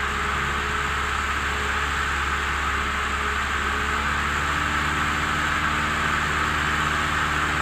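Cockpit sound of a 1976 Cessna 172M in cruise: its four-cylinder engine and propeller drone steadily over a rush of airflow, with the pitch of the engine tones dipping slightly about halfway through.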